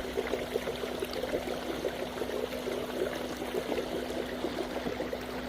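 Water trickling and gurgling along a canoe's hull as it moves through a shallow river, over the steady hum of an electric trolling motor.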